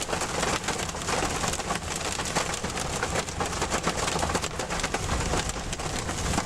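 Rain and hail falling on a moving car, with many irregular small hits over a steady hiss and the low rumble of the car on the road.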